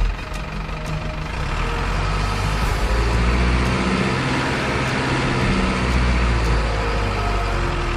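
Truck engine running steadily, with a long hiss building from about three seconds in and fading near the end.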